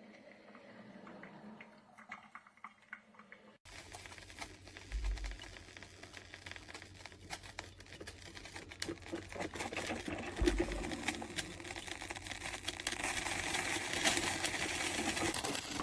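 Braun PureFlavor drip coffee maker brewing: irregular crackling and sputtering clicks over a hiss. The sound starts abruptly about four seconds in and grows louder toward the end.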